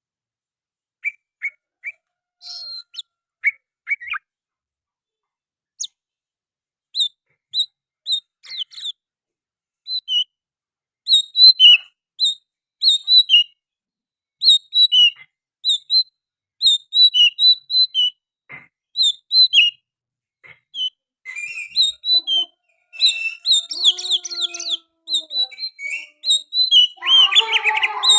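Oriental magpie-robin singing: short whistled chirps, sparse at first, then a quick run of repeated notes that grows into a dense stream of varied notes near the end.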